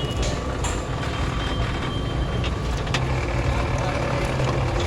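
Motorised sugarcane juice crusher running with a steady low mechanical rumble and a faint whine, with a few light clicks.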